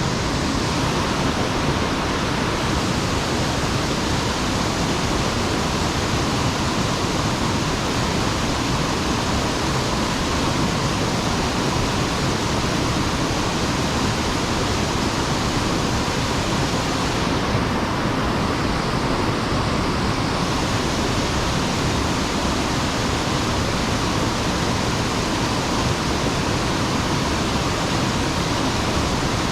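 Mountain stream water rushing steadily, a constant even roar of flowing and falling water.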